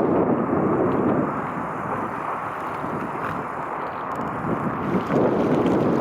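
Wind buffeting the microphone in gusts. It eases for a couple of seconds about two seconds in and picks up again near the end.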